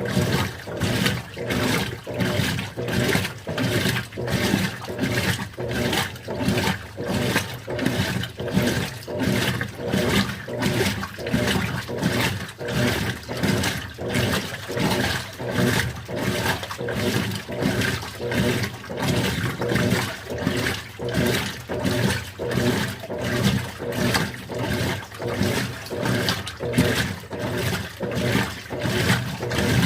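Continental Evolution 13 kg washing machine agitating a load on its delicates program at extra-low water level. The water sloshes in even swishes, about one and a half a second, over a steady low hum.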